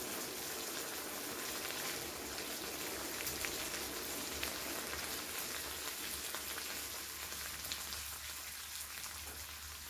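Marinated webfoot octopus sizzling steadily in a frying pan over a canister gas camping stove, with a few faint clicks of chopsticks and tableware. The sizzle eases slightly near the end.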